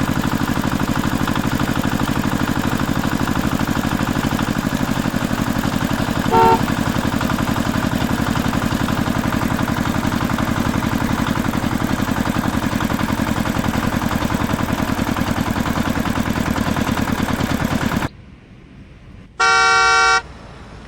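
Vehicle engine running steadily with a fast, even throb, with a short horn toot about a third of the way in. The engine cuts off suddenly near the end, then a louder horn honk sounds for under a second.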